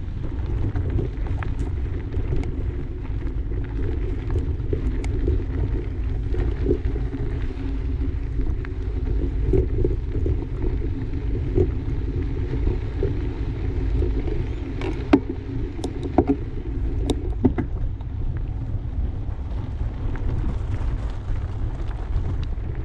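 A bicycle riding over a dirt trail: a steady low rumble of wind on the microphone and tyres rolling on the track, with a few sharp clicks and rattles about two-thirds of the way in.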